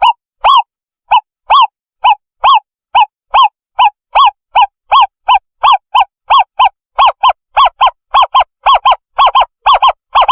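Owlet call played as a bird-trapping lure: a long series of short, clear hooting notes that come steadily faster, falling into quick pairs toward the end.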